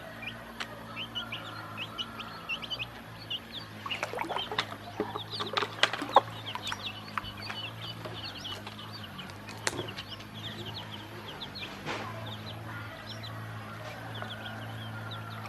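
Ducklings peeping continuously in many short, high, falling peeps. Sharp clicks and knocks cluster between about four and seven seconds in, with a couple more later, over a steady low hum.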